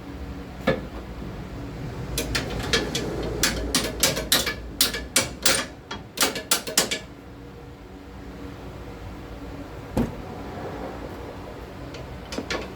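A rapid series of about fifteen hammer blows over some five seconds, knocking a front suspension part into place, followed by a single blow and a few lighter taps later.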